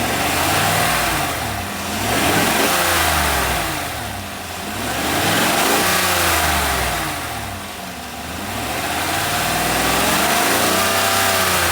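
Suburban's engine revved four times in the engine bay, each rev rising and falling back toward idle. No knock or clunk is heard from the engine, which the owner takes as ruling out an engine problem.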